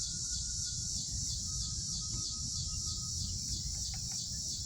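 Outdoor insect chorus, a steady high-pitched chirring with a fast even pulse, over a low rumble of background noise; a faint thin whistle sounds for a couple of seconds in the middle.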